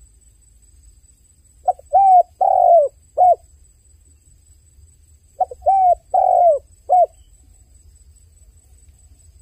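Dove cooing: two phrases of four coos each, a short note, two longer ones and a short closing note, the second phrase about four seconds after the first.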